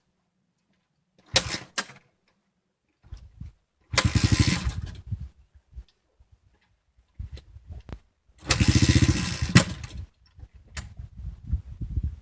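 Honda CRF110's single-cylinder four-stroke engine being started cold without choke: it catches in short bursts of a second or so, about three times, and dies each time, a cold engine that will not keep running without choke.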